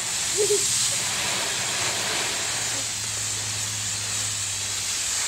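Garden hose spraying water onto a van's body: a steady hiss.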